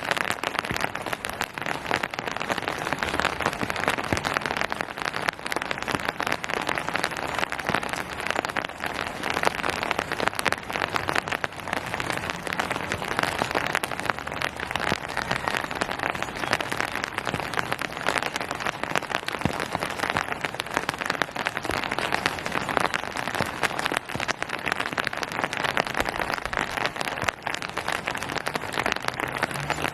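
Steady rain falling and pattering on hard surfaces and foliage, a dense spatter of many small drop impacts.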